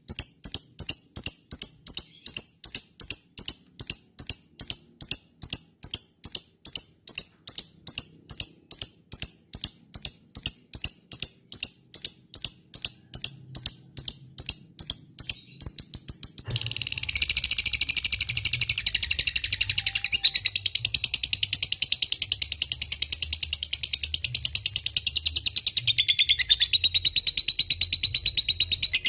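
Lovebird calling: first a long series of sharp, evenly repeated chirps, about three a second; then, a little past halfway, it changes suddenly to a continuous rapid chattering trill, the long 'ngekek' call.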